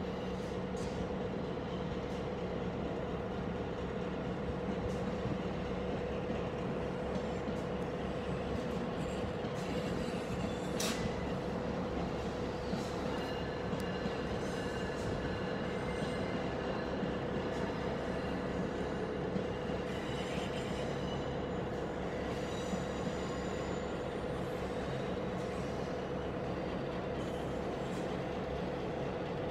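Train at a station: a steady hum and rumble, with faint high tones through the middle and a single sharp click about eleven seconds in.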